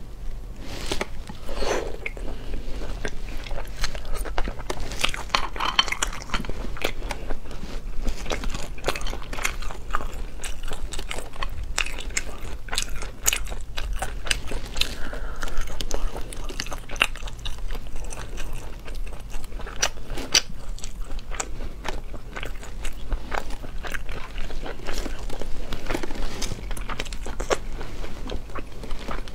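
Close-miked chewing and biting of cooked sea snail meat, with many short clicks as the snail shells are handled and picked at with a toothpick.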